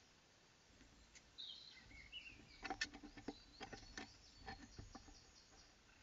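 Garden birds singing: short high chirps and a few gliding calls, beginning a little over a second in. About halfway through comes a run of irregular sharp clicks and knocks, louder than the song.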